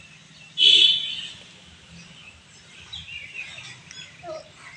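Birds calling: one loud, sharp call about half a second in, then softer chirps.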